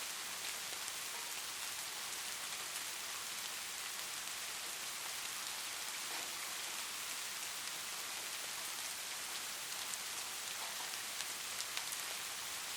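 Steady rain falling and pattering on a surface, with fine scattered drop ticks and no thunder.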